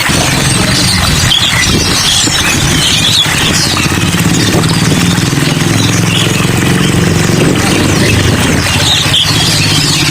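Many small cage birds chirping and twittering over a steady rain-like hiss, with a low engine drone running beneath most of it.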